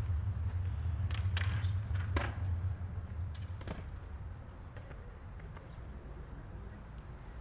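Street traffic: a vehicle's low rumble that fades over the first three seconds or so, with a few sharp clacks in the first four seconds.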